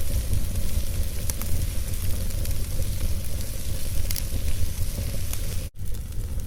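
Wood fire burning in a fireplace: steady crackling hiss over a low rumble, with a few sharp pops. The sound drops out for an instant near the end.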